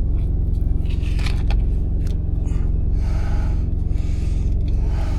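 Steady low drone of the semi truck's APU, its small diesel engine running, with brief rustling and scraping of plastic food packaging being torn open about a second in and again around three seconds in.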